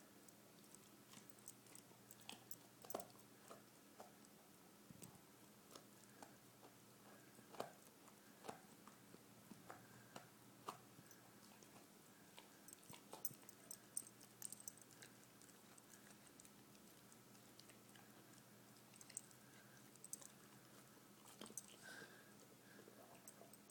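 Dog chewing: faint, irregular clicks and crunches of its teeth, with a few louder crunches among them.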